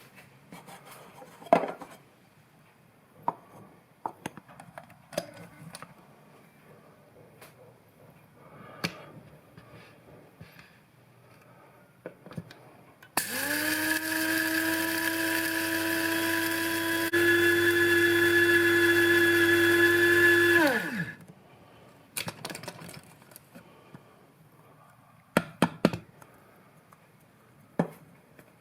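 Small electric spice grinder running for about seven seconds on dry-roasted whole spices (coriander, cumin, fennel and mustard seeds, peppercorns). It spins up sharply, gets louder about halfway through, then winds down with a falling whine. Scattered clicks and knocks come from handling before and after.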